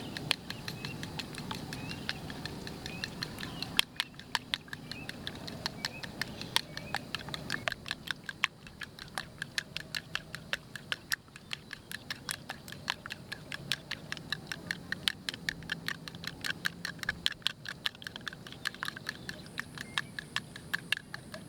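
Knife chopping on a cutting board: quick, regular sharp taps, several a second, getting steadier and faster after the first third.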